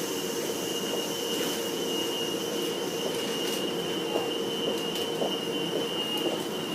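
A train running through the station: a steady high-pitched whine over a lower hum, with a few sharp clicks starting about four seconds in.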